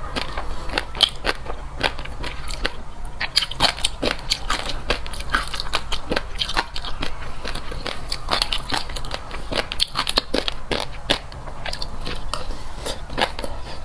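Fish roe being chewed close to the microphone: a dense, irregular run of sharp little pops and crackles as the eggs burst between the teeth.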